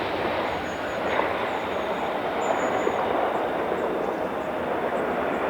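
Jet engine noise of an Airbus A321 airliner landing: a steady, broad rushing sound with no distinct tones or beats.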